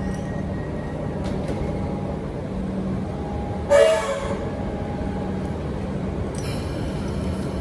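Electric suburban train running with a steady low rumble and hum. About halfway through, a train horn gives one short blast.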